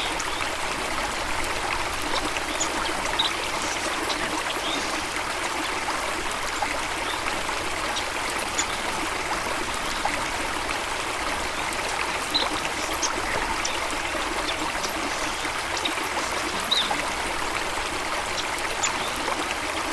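Steady rush of flowing water, as from a stream or small waterfall, with a few brief high bird chirps scattered through it.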